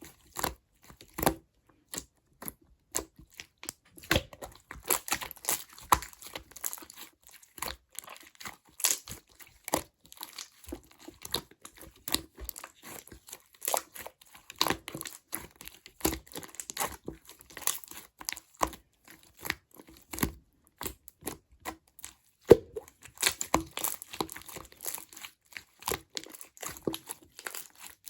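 Clear slime being squeezed, poked and stretched by hand, giving a dense, irregular run of sticky clicks and little pops.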